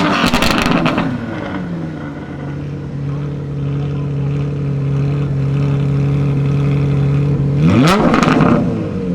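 Supercar engine running at a steady low idle, blipped into a quick rev at the start and again about eight seconds in.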